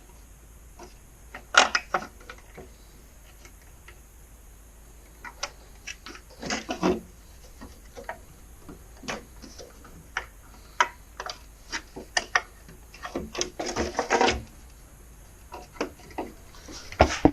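Scattered clicks, taps and rattles of plastic and metal parts being handled and fitted together while a LiftMaster 1160 garage door opener is reassembled.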